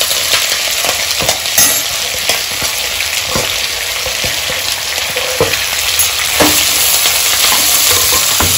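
Hot oil sizzling steadily in a pan as onion, green chilli and curry leaves fry in a tempering of mustard seeds, chana dal and urad dal. The food is being stirred, with short scrapes and knocks against the pan now and then.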